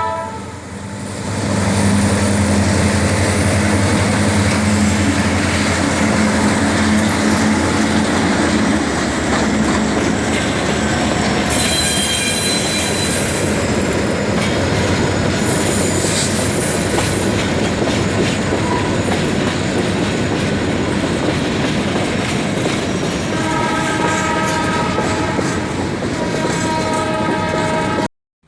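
Diesel locomotives working under load to move a long freight train: a low, steady engine drone over the rumble and clatter of rolling wagons, with high wheel squeals near the middle. Near the end a multi-tone locomotive air horn sounds for several seconds.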